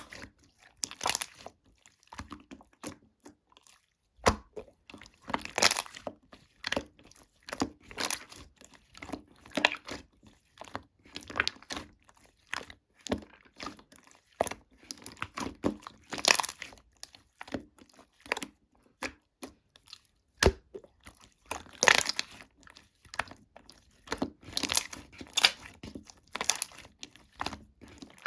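Slime being squeezed, pressed and stretched by hand, giving irregular bursts of small crackles, pops and squishes.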